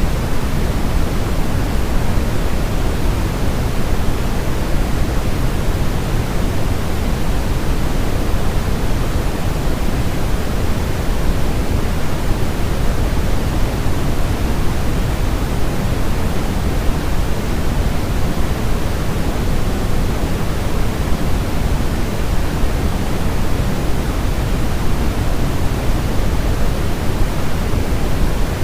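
Steady, unchanging white noise for baby sleep, deep and rushing, with most of its weight in the low end like pink noise.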